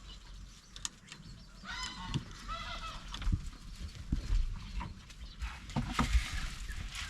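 Farm poultry calling: two short honk-like calls about two seconds in, with scattered low thumps and knocks around them.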